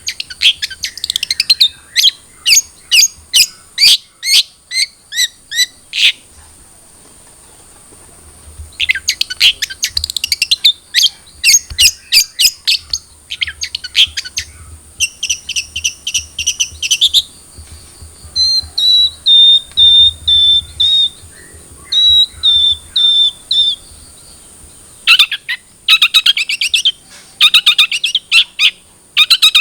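Long-tailed shrike singing a varied, loud song. It opens with a run of sharp notes about two to three a second and pauses for a couple of seconds. It then goes on to dense chattering bursts and clear whistled notes, and near the end to rapid chattering again.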